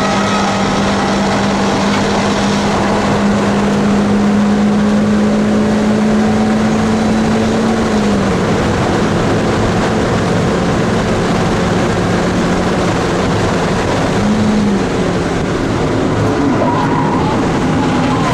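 A 1995 Dodge Neon ACR's four-cylinder engine running hard at high revs, heard from inside the cabin over wind and road noise. Its pitch climbs slowly in third gear, drops with an upshift to fourth about eight seconds in, climbs again, then gives a short rev blip about fourteen seconds in as the car shifts down to third under braking.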